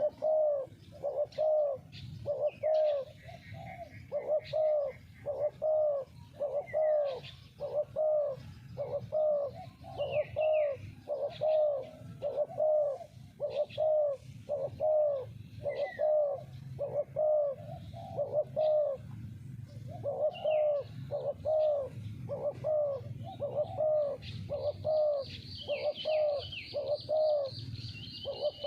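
Spotted dove cooing over and over in a steady string of low, arched coos, about one or two a second. Small birds chirp briefly now and then, and a steady high-pitched whine comes in near the end.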